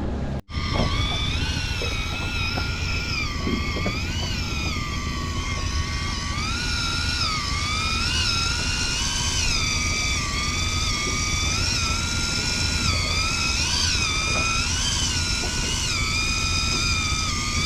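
Electric fishing reel motor whining as it winds in a jig, its pitch wavering up and down as the load on the line changes, over a steady low rumble of wind and water. The sound starts just after a brief cut near the beginning.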